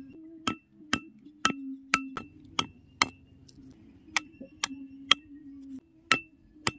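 A small hammer tapping a thin metal rod down into packed sand: about a dozen sharp taps with a short metallic ring, roughly two a second, with a gap of about a second near the end before the last two.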